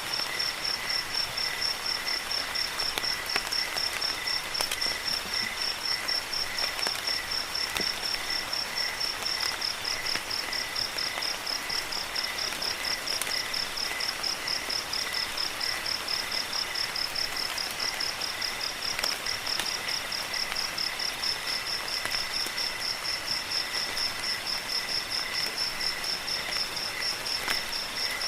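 Crickets trilling steadily: one high, fast-pulsing trill runs on without a break, while lower trills come in short repeated bursts. Beneath them is a soft, even hiss of rain, with scattered light drips.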